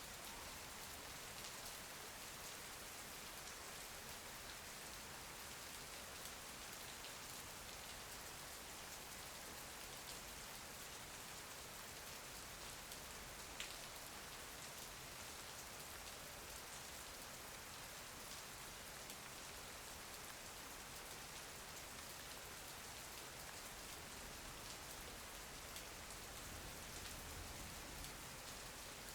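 Steady, faint rain: an even hiss of falling drops with scattered light drop taps, one sharper tap about halfway through.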